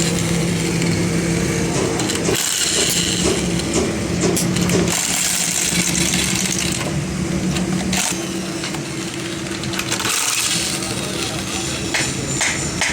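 Ashok Leyland truck running with a steady engine hum and a metallic clinking rattle over it: the gearbox noise being checked.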